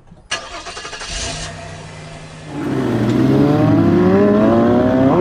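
Car engine running, then revving louder from about two and a half seconds in, its pitch climbing slowly and steadily.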